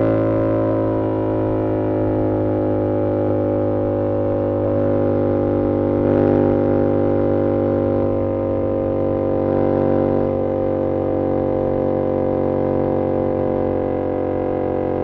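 2022 Yamaha R7's 689 cc CP2 parallel-twin through an SC-Project CR-T exhaust, running at steady revs while cruising. It swells slightly twice along the way.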